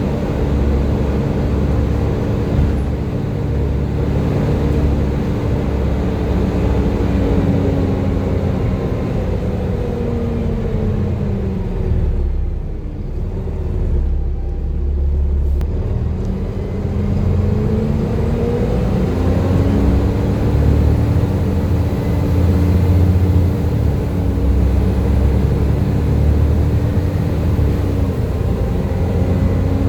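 Volvo B7TL double-decker bus engine and driveline running with its characteristic 'hoover' whine. The whine falls as the bus slows about a third of the way in, the sound dips for a few seconds, then it rises again as the bus pulls away and settles back to a steady pitch.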